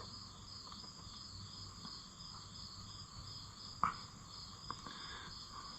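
Insects chirping steadily in a high, pulsing trill, with a low hum underneath. One short knock about four seconds in, followed by a few faint ticks.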